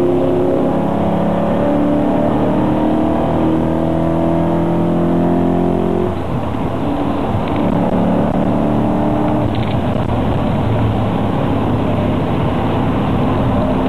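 Car engine heard from inside the cabin, pulling hard under acceleration with its pitch climbing. A gear change about six seconds in briefly drops the level and pitch before the pitch climbs again, over steady road noise.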